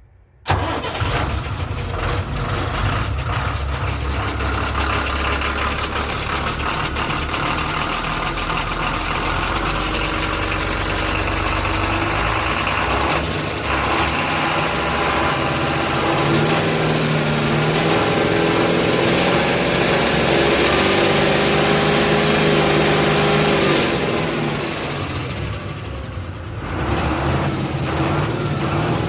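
Ashok Leyland 3118 12-wheel lorry's diesel engine starting about half a second in, then running steadily. It is revved and held at higher speed for several seconds past the middle, then eased back near the end. The engine has about 4,30,000 km on it and the seller rates its condition as fair for the model.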